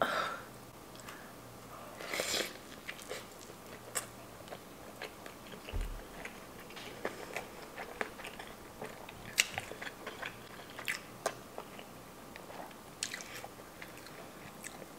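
Close-miked biting into a gravy-dipped spicy fried chicken sandwich, with a crunchy bite about two seconds in, then chewing with scattered small crunches and clicks.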